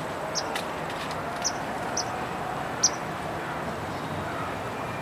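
A small bird chirping: four short, high chirps in the first three seconds, the last the loudest, over a steady hiss of outdoor background noise.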